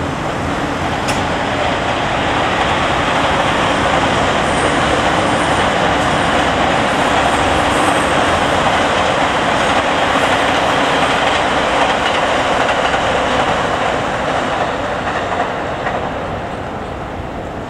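Electric train passing, its sound growing over the first few seconds, holding through the middle and fading near the end.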